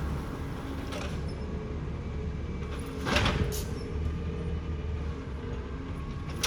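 Side-loader garbage truck engine running steadily, with a short noisy mechanical burst about three seconds in.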